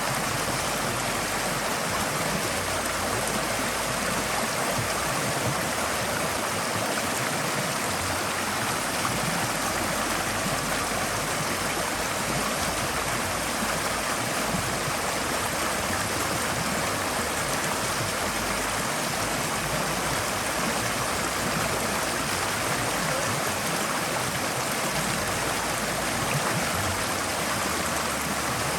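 Forest stream flowing steadily, water running and splashing over stones in an even, unbroken rush.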